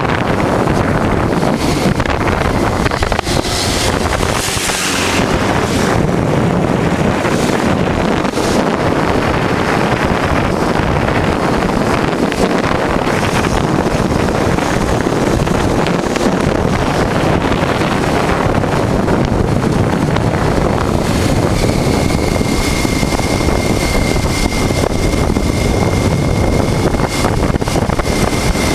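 A Honda Transalp 600 V-twin motorcycle running on the road, with wind rushing over the microphone. A thin, steady high whistle joins about two-thirds of the way in.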